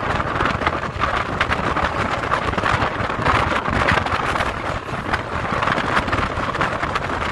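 Passenger train running at speed, heard from an open coach doorway: rushing air and wind on the microphone over a steady rattle and clatter of the coach and wheels on the rails.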